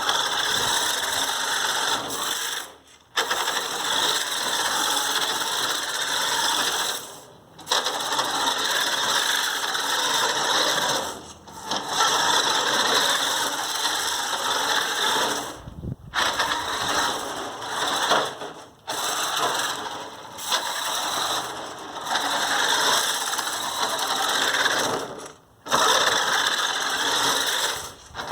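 RC car's motor and gears whirring under throttle in long runs, cutting out briefly several times as the throttle is let off.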